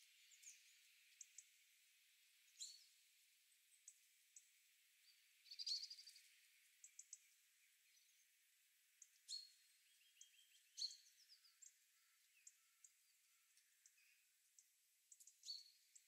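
Faint wild birds calling: scattered short, high chirps and a few quick down-slurred notes, with a brief rapid trill about six seconds in.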